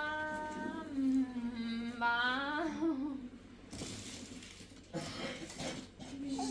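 A voice humming long held notes, the pitch wavering and sagging a little; it stops for a few seconds of noise about halfway through, then comes back with a steady held note near the end.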